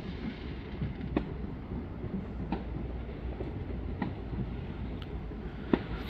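Distant fireworks going off: several sharp bangs and cracks at uneven intervals over a steady low rumble.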